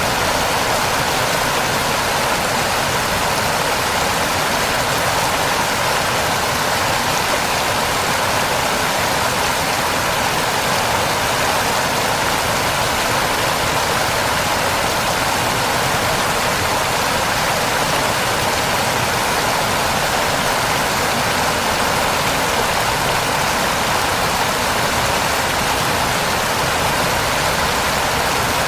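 Steady, loud rush of a waterfall, an even roar of falling water that does not change.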